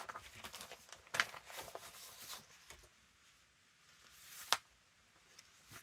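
Paper and card being handled and shuffled on a craft desk, soft rustles and light taps, with one sharp tap about four and a half seconds in.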